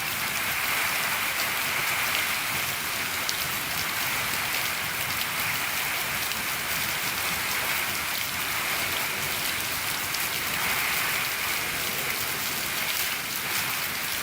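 Steady rain falling on a shed, a dense even patter of many small drop ticks.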